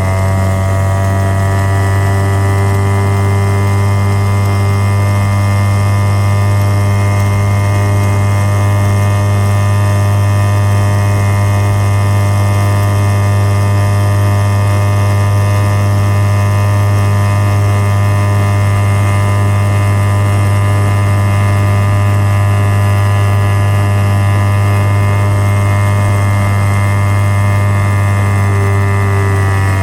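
1984 Mariner 4 hp two-stroke outboard running steadily at high revs under way, its revs dropping near the end as the throttle comes back.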